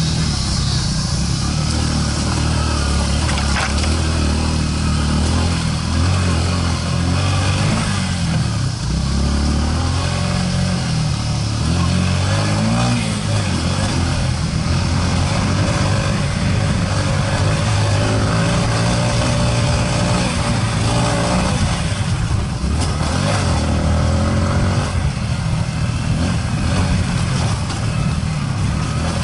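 Trail motorcycle's engine running as it rides a dirt track, its pitch rising and falling again and again with the throttle, over a steady rushing noise.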